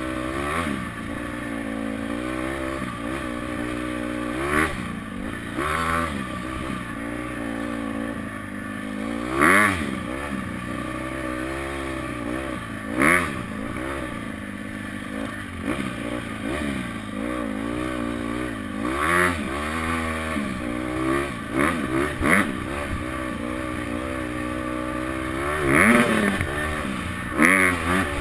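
Honda CRF four-stroke dirt bike engine revving up and falling back again and again as it is ridden around a dirt track, with brief loud clattering knocks every few seconds.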